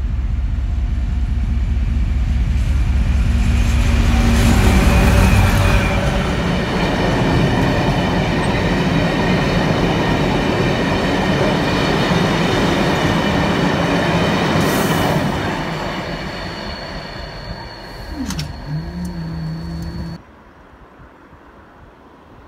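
A freight train passing close by: the locomotive goes past with a low throb, then a long run of tank wagons follows with a steady rumble and clatter of wheels on the rails and some high ringing. It fades as the train draws away, and the sound cuts off about 20 seconds in.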